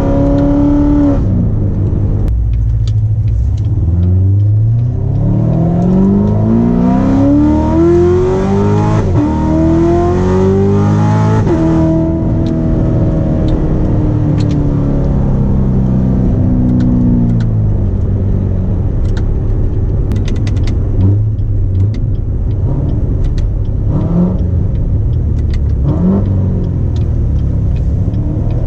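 Corvette C7 Z06's pushrod, cross-plane V8 breathing through custom 180-degree long-tube headers, pulling hard with its pitch climbing steeply. About nine seconds in the pitch drops sharply and climbs again, then falls away as the throttle eases. After that the engine runs at a lower, steadier pitch with a few short blips of revs near the end.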